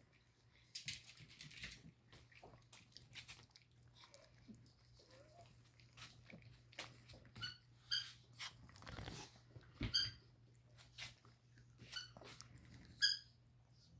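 Dogs at close range making mouth noises: chewing, licking and nipping clicks, with several short high-pitched squeaks.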